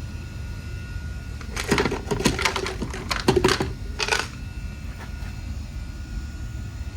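A run of sharp rattling clicks and clatters lasting about two and a half seconds, starting about a second and a half in, over a steady low rumble.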